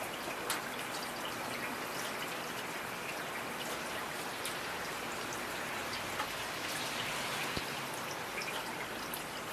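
Steady rain falling, an even hiss with many individual drops striking sharply and irregularly on top.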